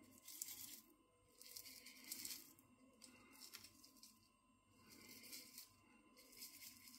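Very faint, gritty rustling in five or six short spells, each under a second, with near silence between: kosher salt being sprinkled over raw chicken.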